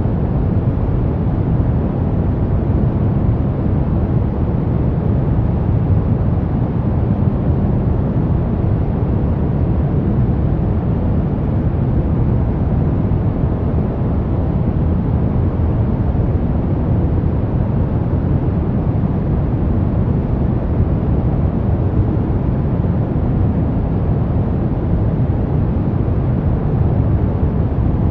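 Brown noise: a steady, unchanging deep rumbling hiss, weighted heavily toward the low end with little treble.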